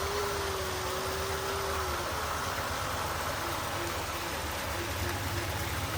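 A bird's low hooting call: one note held for about two seconds, then a run of short repeated hoots, over a steady low hum.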